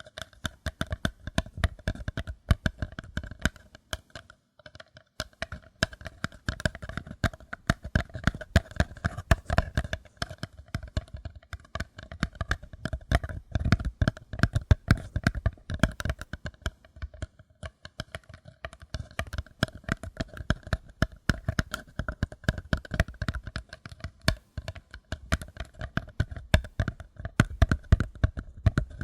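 Fingers tapping rapidly and lightly on a paper cup, a dense, unbroken run of taps with a brief pause about four seconds in.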